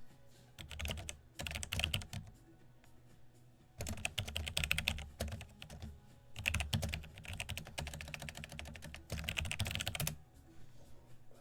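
Typing on a computer keyboard in five quick bursts of rapid key clicks, with short pauses between them.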